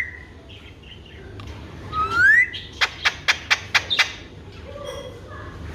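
Alexandrine parakeet giving a short rising whistle, then a quick run of sharp clicks.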